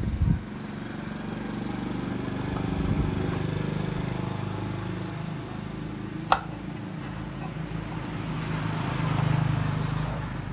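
Electric bike motor running with a steady low hum that swells and eases twice, with one sharp click about six seconds in.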